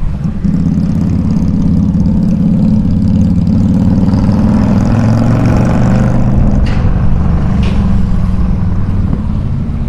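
Harley-Davidson motorcycle's V-twin exhaust running loud with a steady, low-pitched note.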